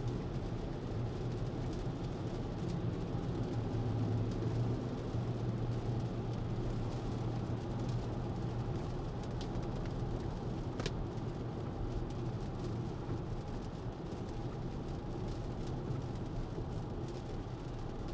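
Tesla electric car driving on a rain-wet road, heard from inside the cabin: steady tyre and road noise with a low hum, and a single sharp click about eleven seconds in.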